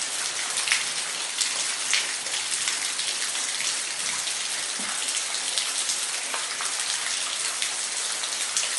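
Waterfall: a steady rush of falling water, with small splashes and drips standing out every second or so.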